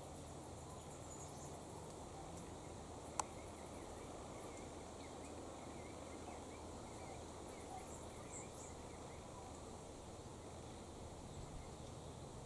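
Faint garden ambience: a steady low hum and hiss, with faint high chirps and short insect-like trills, and a single sharp click about three seconds in.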